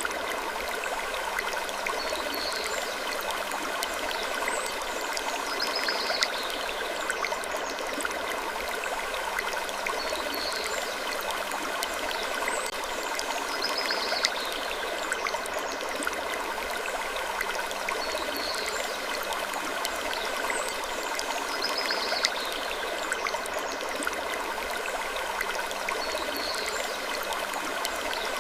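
Wood creaking ambience for sleep: a steady wash of noise with faint sustained creaking tones, and small high creaks recurring every couple of seconds.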